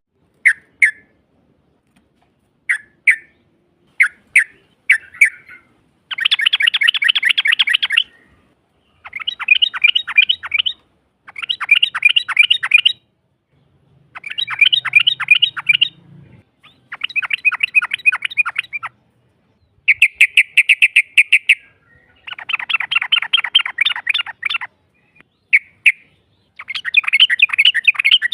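Yellow-vented bulbul (trucukan) calls: a few short separate chirps, then about six seconds in a series of rapid chattering trills, each about two seconds long, with short pauses between them.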